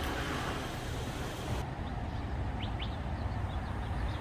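Outdoor city ambience: a steady low rumble of distant traffic, with a couple of faint, short bird chirps a little past the middle.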